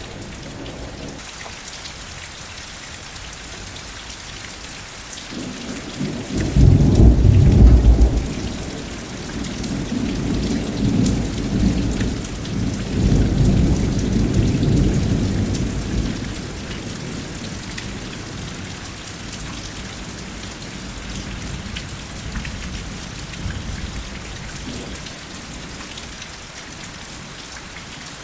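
Steady rain falling, with a roll of thunder that breaks in sharply about six seconds in, rumbles on in waves for roughly ten seconds and dies away, leaving the rain.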